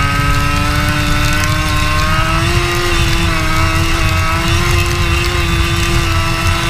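Racing kart engine pulling steadily along the circuit, its pitch climbing gradually for the first couple of seconds, then holding with brief small dips and easing off near the end, over a heavy low rumble.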